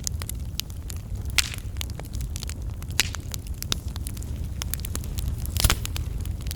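Wood fire burning in a fireplace: a steady low rumble of flames with irregular crackles and snaps, the loudest pops about a second and a half in, at three seconds and near the end.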